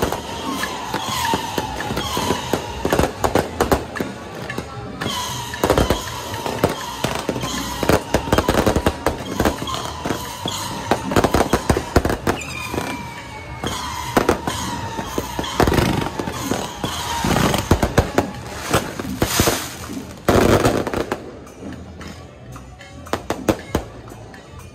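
Fireworks and firecrackers going off in a dense run of bangs and crackles, with music playing underneath; the bangs thin out about four seconds before the end.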